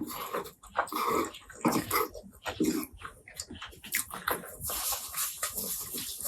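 Close-miked eating sounds: irregular wet chewing, lip smacking and mouth clicks.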